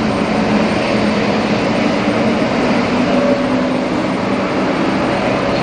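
Jet airliner engines running steadily, with a low droning hum under an even rush of engine noise.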